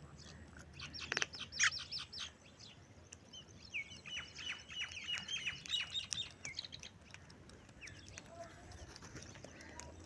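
Birds chirping: a quick run of high chirps about a second in, then a longer series of rapid, repeated high notes from about four to six and a half seconds.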